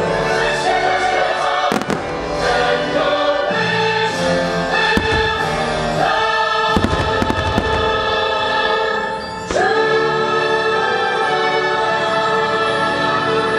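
Fireworks-show soundtrack of choir and orchestra playing loudly, with firework shells bursting over it: a single bang under two seconds in, then a rapid cluster of bangs in the middle.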